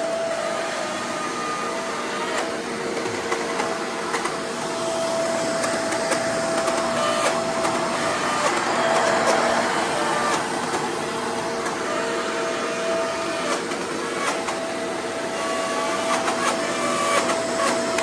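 Shark Powered Lift-Away DuoClean vacuum running steadily on carpet, its powerhead grinding with scattered clicks and rattles. The owner puts the grinding down to the worn front roller brush.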